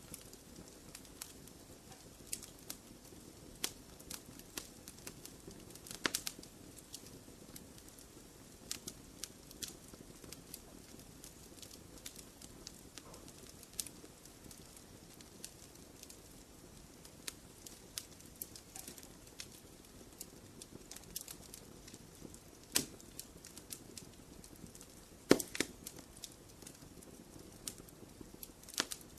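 Wood fire in a fireplace crackling, with a low steady hiss and irregular sharp pops, a few louder ones standing out.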